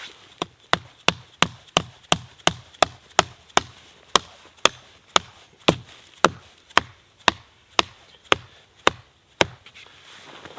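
A hand tool chopping wood: a fast, even run of about two dozen sharp strikes, two to three a second, stopping shortly before the end.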